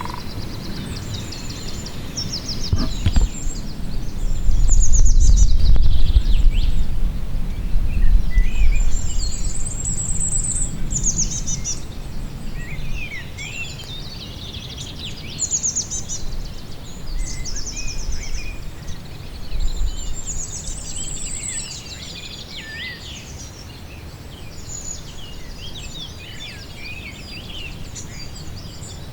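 Several songbirds singing, with rapid trills and chirps overlapping throughout. A low rumble swells about four seconds in and is the loudest sound until about eleven seconds in, then eases off.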